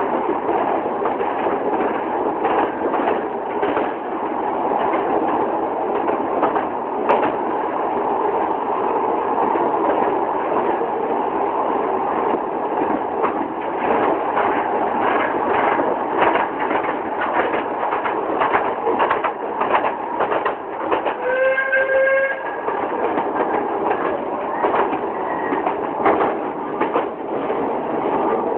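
Train running along the track with a steady rumble and a continual clickety-clack of wheels over rail joints. A short whistle sounds once, about three-quarters of the way through.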